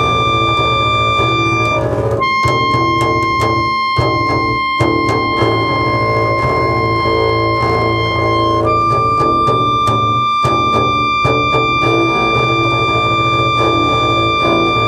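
Experimental chamber music for clarinet and double bass. A long, steady high note steps slightly lower about two seconds in and returns near the nine-second mark, over a dense, sustained low layer, with scattered clicks throughout.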